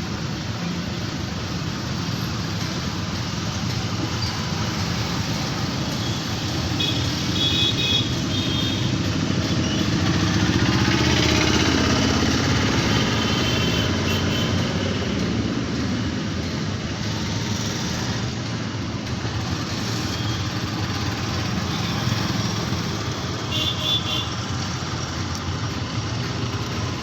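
City road traffic with motorcycles, cars and trucks running past in a continuous wash of engine and tyre noise, which swells as a vehicle passes about ten to fourteen seconds in. Two brief high-pitched beeps sound, about a quarter of the way in and again near the end.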